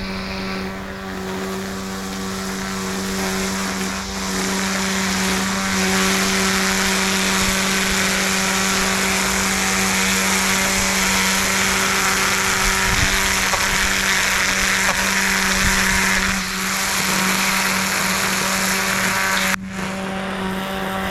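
String trimmer held upside down and used as an edger, its motor running at a steady high speed with a loud whine and the hiss of the line cutting. The sound drops suddenly near the end.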